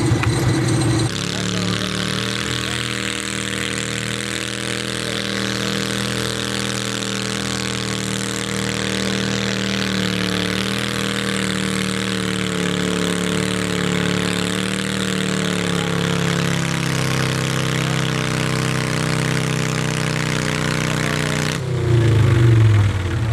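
Twin-cylinder garden tractor engine running hard and steady while pulling a weight sled. Its pitch dips slightly partway through, then sags lower for the last stretch as the load grows. The engine sound starts abruptly about a second in and breaks off abruptly near the end.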